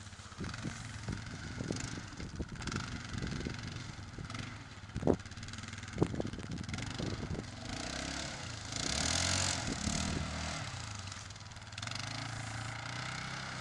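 ATV engine running and revving as it is ridden over rough ground, with a string of knocks and thumps, two loud ones about five and six seconds in. A louder rush of noise comes about nine seconds in.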